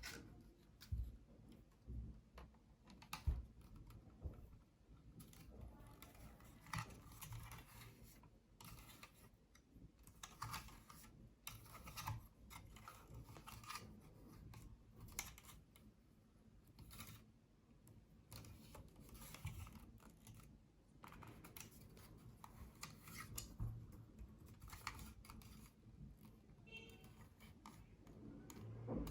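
Faint, irregular clicks, taps and rustles of hands handling packaging and a small plastic gadget during an unboxing.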